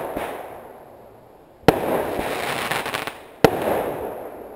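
Aerial fireworks bursting: two sharp bangs about a second and a half apart, each followed by a long echoing rumble, with a brief crackling after the first.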